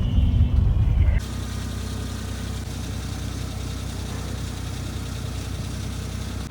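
Suzuki Jimny JA11's engine: a louder low rumble for about the first second, then it drops suddenly to a steady idle hum.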